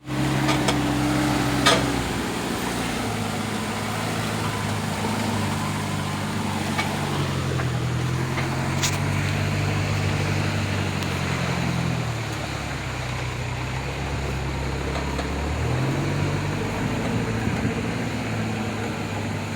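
Truck engine running under way, its pitch rising and falling a few times as the revs change. A few sharp knocks or clicks come through, the loudest one about two seconds in.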